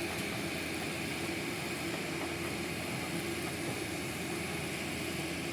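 Steady mechanical drone of construction-site machinery at an even level.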